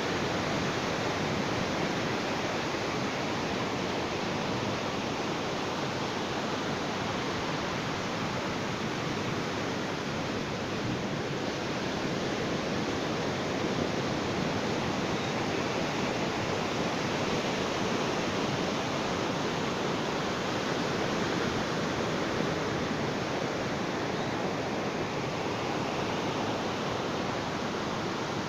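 Sea surf washing on a beach: a continuous hiss of breaking waves that barely rises and falls.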